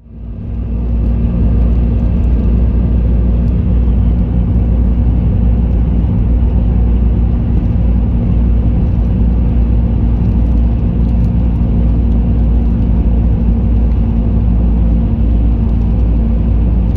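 Bus running at speed: a loud, steady low rumble of engine and road noise with a constant hum.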